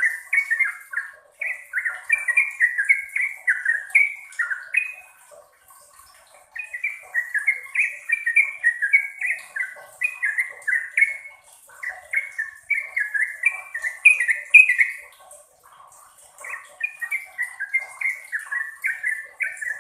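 Trucukan (yellow-vented bulbul) singing long, fast runs of bubbly, warbled notes, each run lasting several seconds with brief pauses between them. A faint high thin note runs underneath.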